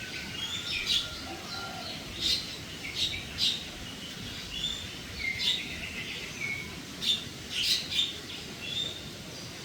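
Birds chirping: sharp, short high calls about once a second, irregularly, with a few brief whistled notes between them, over a steady low background noise.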